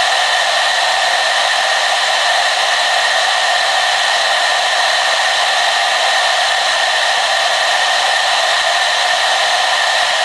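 Hair dryer running steadily, a constant rushing hiss of blown air with a steady whine in it and little low end.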